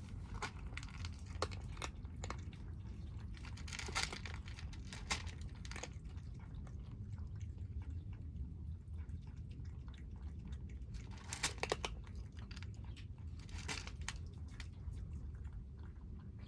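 Feral kittens chewing their food, with many short sharp bites and crunches, busiest about four seconds in and again near the twelve-second mark.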